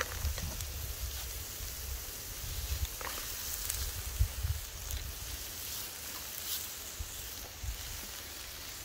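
Egg and chopped onion sizzling in a frying pan over an open wood fire, with a steady low rumble underneath. A faint click at the start comes as chopped onion drops into the pan.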